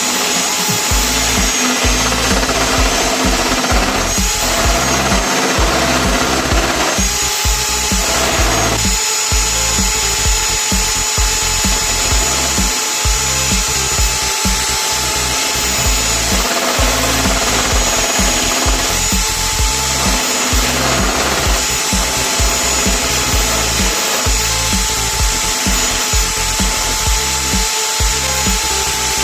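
A homemade drill-powered wood lathe running steadily, its motor whine shifting briefly in pitch a few times, with background music playing over it.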